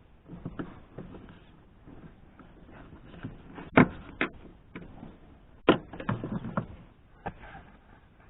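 Handling noises from work on a car's interior trim: rustling and scraping with a few sharp clicks and knocks, the loudest about four and six seconds in.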